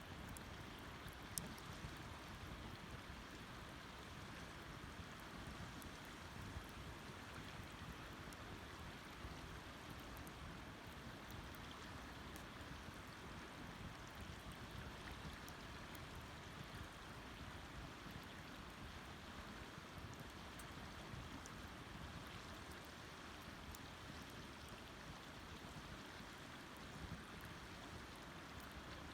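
Wood campfire burning: a faint steady hiss with scattered small crackles and pops, one sharper pop about a second and a half in.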